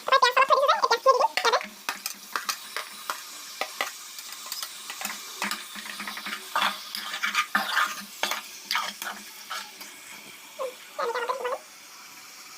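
Metal spatula stirring and scraping chicken pieces around a hot kadai: repeated clinks and scrapes against the pan over a steady frying sizzle. A short high-pitched cry is loudest at the very start, with another about eleven seconds in.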